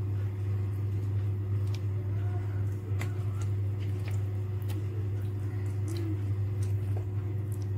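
Raw chicken pieces being mixed into a thick yogurt tandoori marinade: soft wet squishing with scattered light clicks, over a steady low hum.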